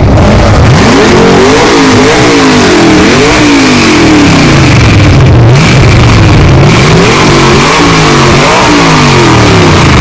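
Car engine being revved again and again, the pitch climbing and dropping several times in quick succession; very loud.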